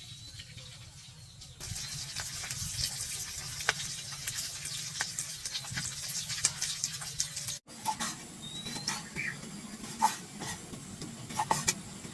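Kitchen work: a steady hiss with many sharp clinks and knocks of utensils and cookware over it.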